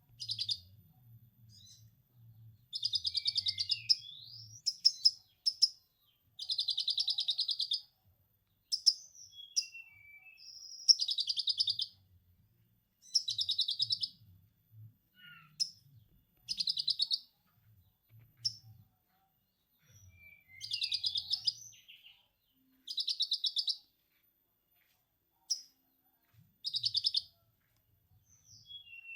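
Konin (purple-throated sunbird) singing lovebird-style 'ngekek' material: repeated high, rapid chattering bursts of about a second each, broken by short chirps and brief pauses.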